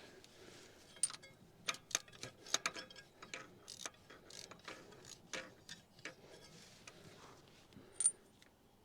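Socket ratchet clicking in quick, irregular runs as spark plugs are backed out of an engine, with one sharper click near the end.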